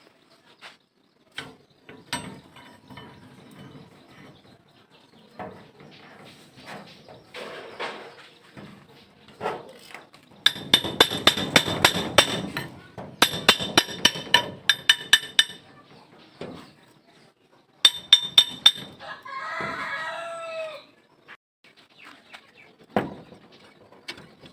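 Metal being struck in quick, ringing taps, several a second, in a long run about halfway through and a short run a little later, with scattered lighter knocks around them. Near the end a chicken calls once.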